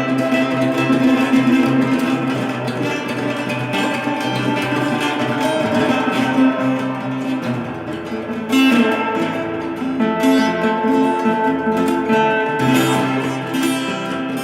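Acoustic guitar music: plucked notes and strummed chords.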